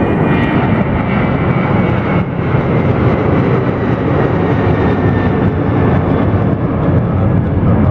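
Jet airliner engines running loud and steady as the plane passes near the airport, a broad rumble with a faint high whine over it.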